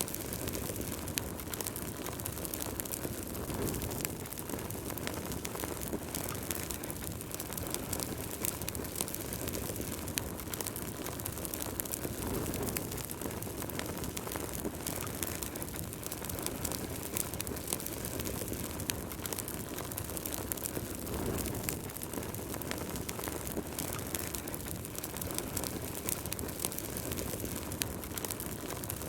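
Wood fire burning in a fireplace: a steady low rush of flame with frequent sharp crackles and pops.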